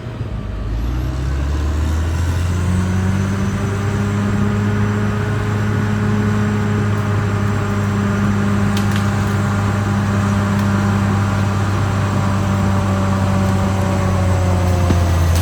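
Caterpillar D6R XL bulldozer's diesel engine running hard, its pitch climbing over the first couple of seconds and then holding steady.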